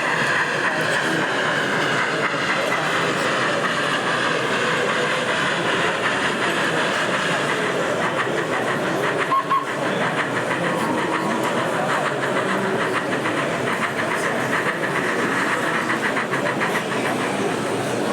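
OO-gauge model train running on a layout: a light motor whine with a run of small clicks from the wheels over rail joints, over the chatter of an exhibition hall.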